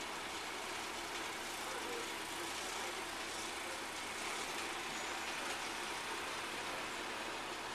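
Heavy truck engine running steadily, under a broad, even hiss.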